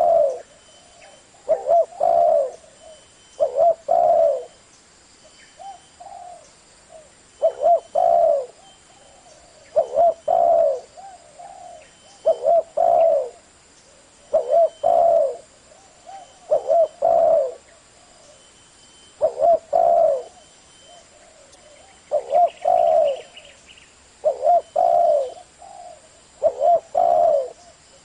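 Spotted dove cooing over and over, each phrase two or three low notes, repeating about every two seconds.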